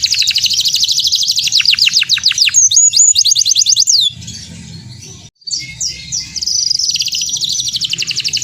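Domestic canary singing loudly: fast trills and falling whistled sweeps. The song breaks off about four seconds in, with a brief dropout. Rapid trilling resumes about a second and a half later.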